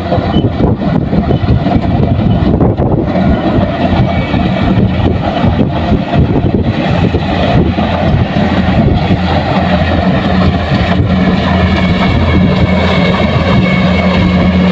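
Kubota rice combine harvester's diesel engine running steadily under load, with rattling and knocking from the machine in the first half, settling into a more even hum from about halfway through.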